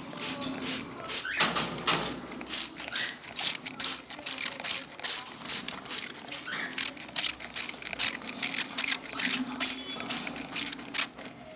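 Hand spray bottle squirted over and over in quick, irregular short spurts, about three or four a second, to shower cockatiels.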